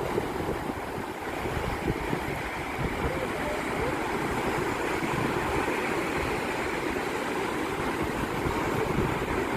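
Mediterranean surf washing in a steady rush of breaking waves, with wind buffeting the microphone.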